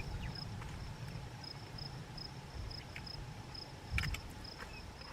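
Cricket chirping steadily, a few high chirps a second, with a brief rustle about four seconds in.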